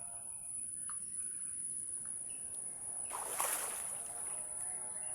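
Water splashing and sloshing, with a louder burst of splashing about three seconds in.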